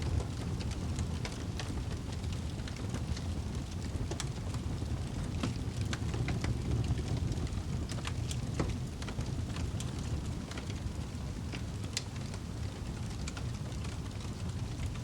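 Wood fire burning in a fireplace: a steady low rumble with scattered crackles and pops.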